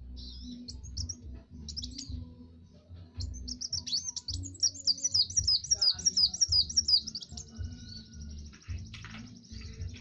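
A kowul (kolibri wulung sunbird) singing. Scattered high chirps give way to a fast run of sweeping, descending notes about three seconds in. The song ends in a steady, buzzy high trill for the last few seconds.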